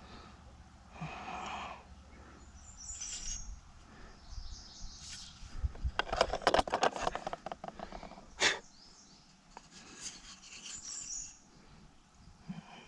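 Birds chirping, with a rapid clatter of sharp clicks about six seconds in and one sharp knock a couple of seconds later.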